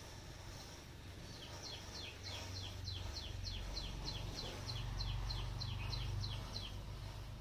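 A bird calling in a rapid, even series of short downward-slurred chirps, about four a second, for roughly five seconds, over a low steady rumble.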